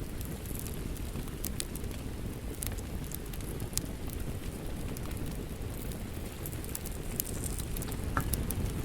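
Wood fire crackling in a fireplace: a steady low rush of flame with scattered sharp crackles and pops.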